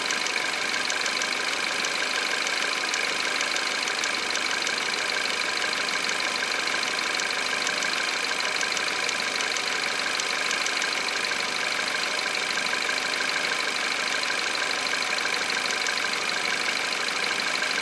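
Peugeot 408 1.6 THP turbo petrol engine idling steadily on a cold start, with faint ticking now and then. The owner asks whether the cold-running noise is the timing chain.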